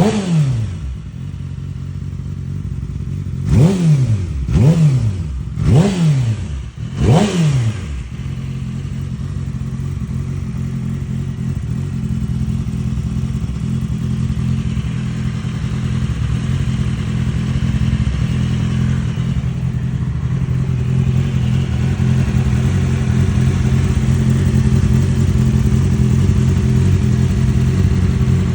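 2007 Yamaha R6 inline-four engine blipped sharply once at the start and four more times a few seconds in, each rev shooting up and dropping straight back, then settling into a steady idle that rises slightly later on. It runs without audible ticks or knocks, as the owner presents it.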